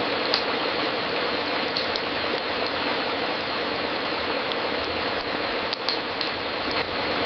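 Fireplace crackling: a steady hiss of burning wood with scattered sharp pops.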